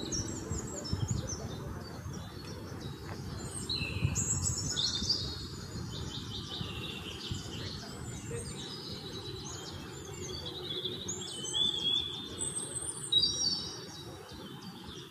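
Several birds chirping and calling in quick, overlapping phrases of rapidly repeated high notes and trills, over a low, steady background rumble.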